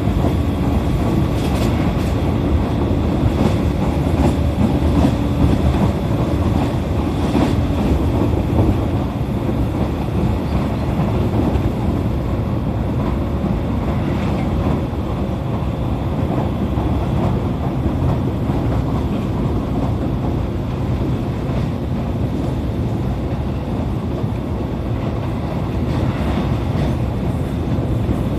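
E531 series electric train running at speed, heard from inside the passenger car: a steady rumble of wheels on rail with a few clicks over rail joints.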